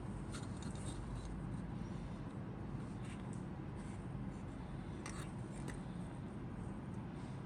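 Faint rustling and a few soft clicks of model kit parts and packaging being handled, over a steady low hum.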